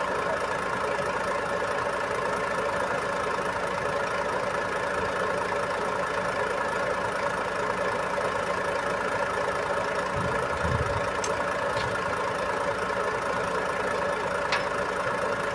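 Boom truck's engine idling steadily, with a dull low thump about ten seconds in and a couple of faint clicks.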